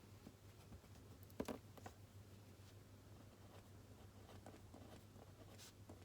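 Quiet room with a low steady hum and a few soft desk sounds of someone studying: a couple of light knocks about one and a half seconds in, then faint ticks and rustling.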